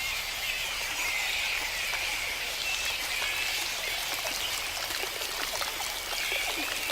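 Rainforest ambience: a steady high hiss with many small scattered drips or ticks, like rain dripping through foliage.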